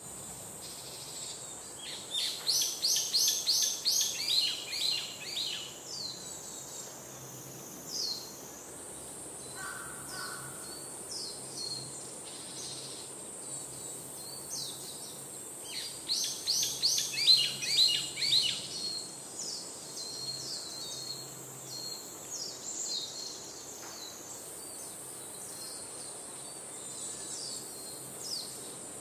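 Songbirds chirping: two bursts of quick repeated chirps a few seconds long, about two seconds in and again midway, with scattered single chirps between, over a steady high hiss.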